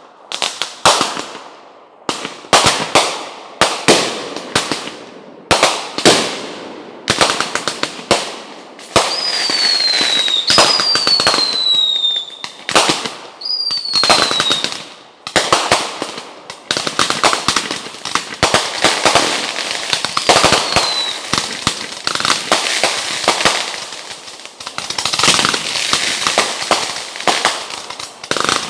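Fireworks going off in quick succession: sharp bangs, each with a fading crackle. Several short whistles falling in pitch sound in the middle, and in the second half the bangs run together into dense crackling.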